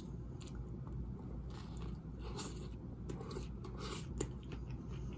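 A person chewing a mouthful of Big Mac close to the microphone, with irregular soft crunches and wet mouth clicks.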